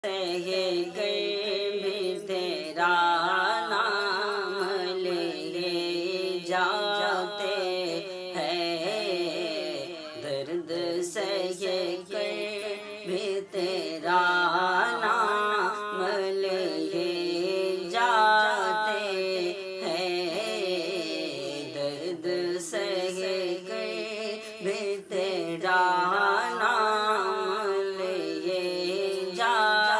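Wordless sung melody with ornamented, gliding phrases over a steady held drone: the intro of a naat.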